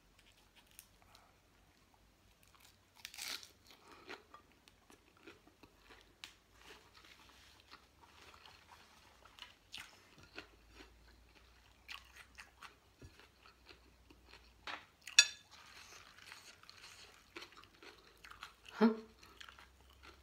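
Close-up chewing and soft crunching of a mouthful of fresh raw leaf wrapped around rice-noodle salad, with scattered mouth clicks and a louder crunch about fifteen seconds in.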